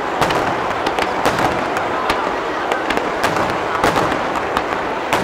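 Aerial fireworks shells bursting: an irregular run of sharp bangs and crackles, several a second, over a steady dense noise.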